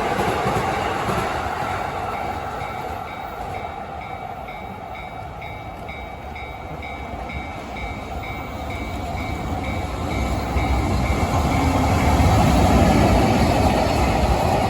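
An electric train running past a Japanese railway level crossing, its rumble and wheel noise dipping in the middle and swelling again to its loudest near the end. Through the quieter middle the crossing's electronic warning bell is heard ringing in a steady, rapid repeating ding.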